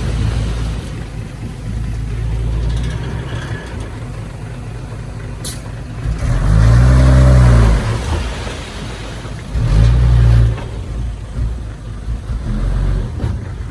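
Heavy diesel engine of earthmoving machinery running with a steady low rumble. About six seconds in it revs up and back down over a second or so, then gives a shorter burst of revs around ten seconds.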